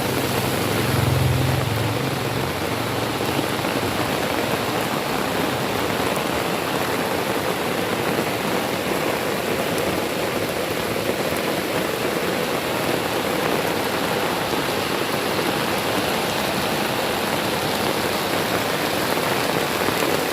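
Heavy rain pouring steadily, with a brief low rumble about a second in.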